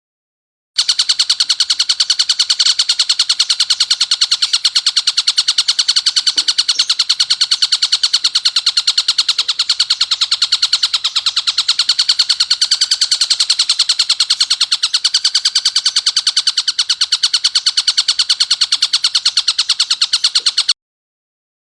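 Tengkek buto (stork-billed kingfisher) giving a harsh, rapid call: a long unbroken run of identical sharp notes, several a second. It starts and stops abruptly.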